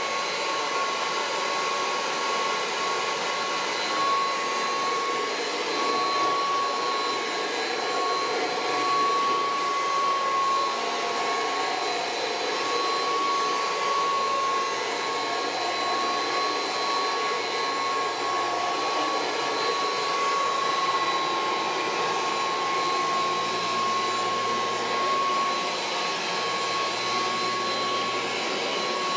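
Kirby Heritage II upright vacuum cleaner running steadily: a constant rush of air with a steady high whine from the motor and fan.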